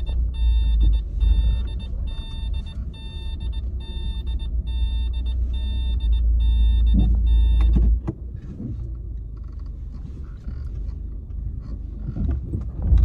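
A car's reverse-gear warning beep sounds about twice a second over the low rumble of the idling engine. The beeping and most of the engine rumble stop about eight seconds in, as the car is parked.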